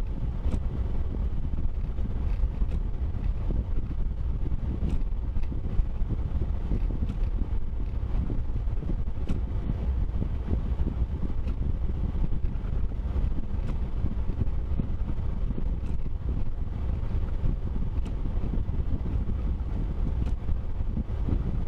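Steady low rumble of a vehicle driving, with a few faint ticks.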